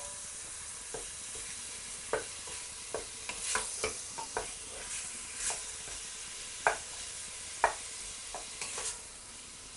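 Diced chicken sizzling steadily in hot oil with garlic and chilli seeds as it is sealed. Irregular clicks and scrapes of a utensil stirring it against the pan.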